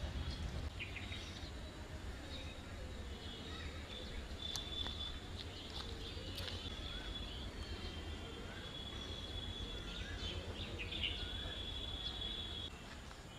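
Outdoor birdsong: birds chirping, with long high trills and a few short swooping calls, over a low steady rumble.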